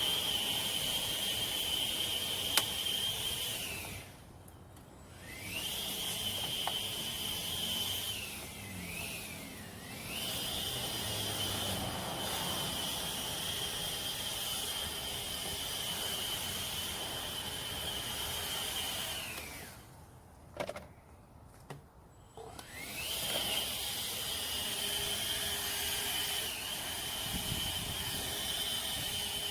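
Steady high-pitched drone of insects, which fades out and back twice. There is one sharp click a few seconds in.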